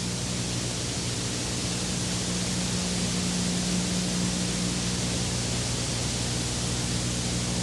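Steady hiss with a constant low electrical hum underneath, typical of an old analogue videotape recording.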